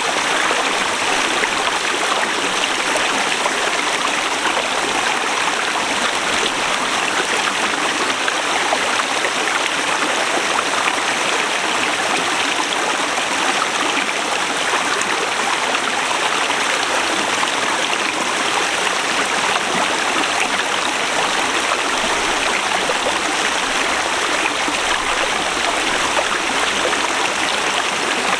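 Forest river flowing, a steady, even sound of running water with no breaks or changes.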